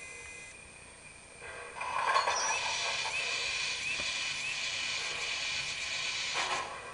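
Sound system of an MTH HO-scale Union Pacific Big Boy model steam locomotive playing a steady steam hiss that comes in loudly about two seconds in, with faint squeaks repeating under it. Separate chuff-like bursts start near the end as the model prepares to move off.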